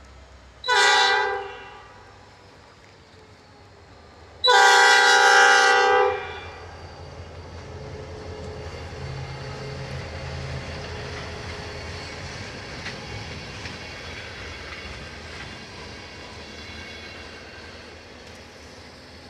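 Freight train's locomotive air horn sounds a short blast, then a longer blast about four seconds later. After that the train passes with a steady rumble and some wheel clatter, slowly fading.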